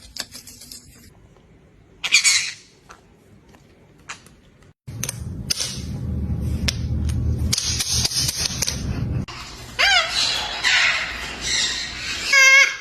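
Parrot squawking and calling: a loud harsh squawk about two seconds in, scattered clicks and rustling noise, then gliding calls near the end. Music starts just before the end.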